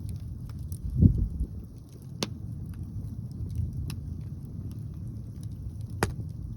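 Wind rumbling on the microphone, with a heavier gust about a second in, and a few sharp pops from a crackling wood fire.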